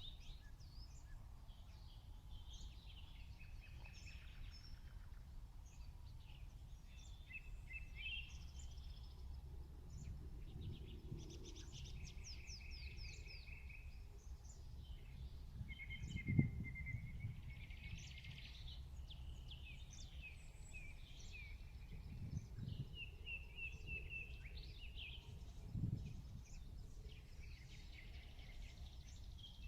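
Small birds chirping and trilling on and off, over a steady low rumble, with three soft low thumps, the first the loudest.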